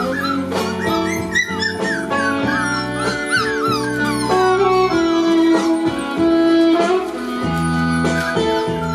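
Background music with guitar-like held notes, over month-old Border Collie puppies whimpering in many short, rising-and-falling cries, most of them in the first half.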